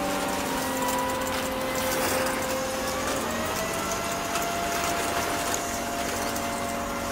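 Small electric motor whining steadily as it turns a model rotary sieve drum, its pitch stepping up a little about three seconds in, over the hiss of sand pouring down the chute.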